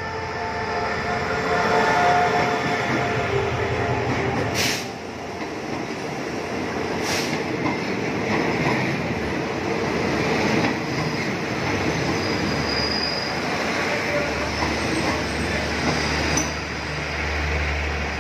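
An SRT CDA5B1 diesel-electric locomotive runs slowly past at the head of an express train, followed by its passenger coaches rolling by as the train slows to a stop. There are two sharp clanks a few seconds apart early on, and a low hum sets in near the end.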